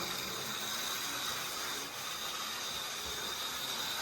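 Model locomotive's small electric motor running steadily with a hissing whir, starting and stopping abruptly as the power is switched; the locomotive that was thought not to work does run.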